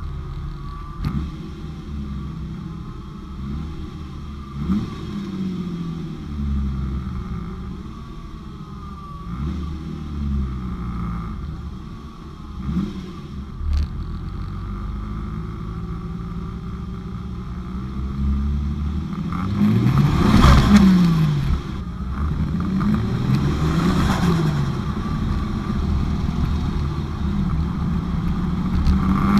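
Turbocharged Toyota 1JZ-GTE VVTi straight-six revving up and falling back again and again. The two highest revs come about two-thirds of the way through, each with a loud rushing hiss.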